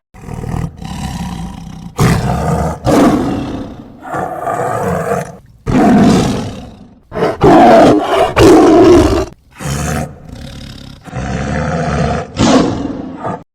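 A big cat roaring and snarling in a series of loud, rough calls, several broken off abruptly.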